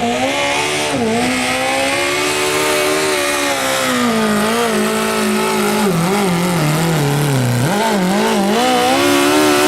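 Modified lawn tractor's engine running hard under full load while pulling the sled. Its pitch wavers, then sags down about six to seven and a half seconds in as the weight bogs it, and climbs back up near the end.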